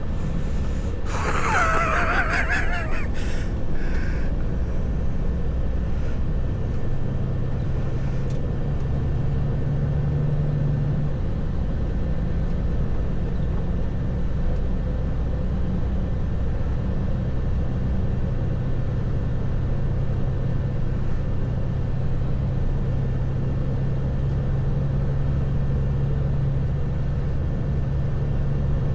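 Heavy truck's engine running steadily, heard from inside the cab as a low drone with a hum that swells twice. A short wavering higher-pitched sound comes about a second in.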